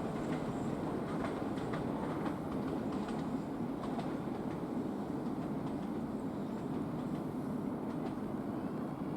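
A train rolling along the platform, its wheels clicking over rail joints over a steady running noise. The clicks thin out after about four seconds.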